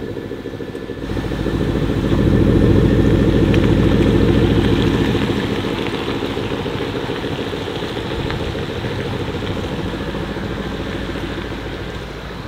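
Porsche Cayenne Turbo's 4.0-litre V8, through its titanium sports exhaust, running at a steady raised idle just after start-up. It grows louder about a second in and then slowly settles quieter.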